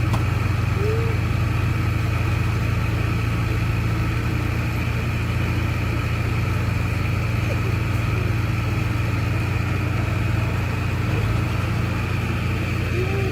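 Heavy diesel engine of earthmoving machinery running steadily at a constant low hum, with no change in speed.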